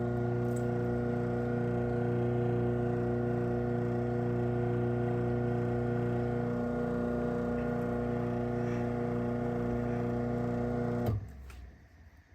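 Craftsman 139.53930DM half-horsepower chain-drive garage door opener running a closing cycle: a steady motor hum that stops abruptly with a click about eleven seconds in.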